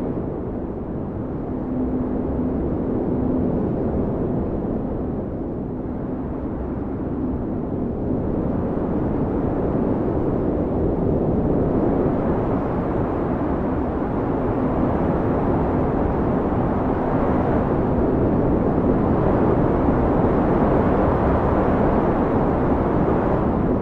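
Strong blizzard wind blowing in a steady low rush that swells and eases slowly, with a faint low howling tone running through it.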